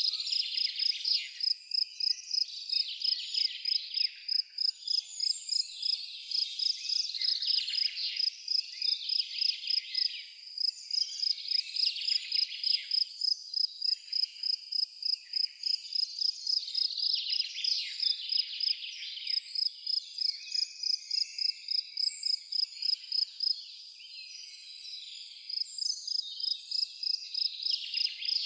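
An insect chirping in an even pulse, about three chirps a second, over birds calling; the chirping breaks off for about two seconds near the end.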